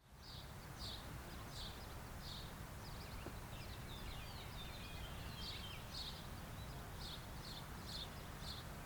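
Faint outdoor birdsong: a small bird chirping repeatedly, about one to two chirps a second, with some brief twittering midway, over a low steady rumble.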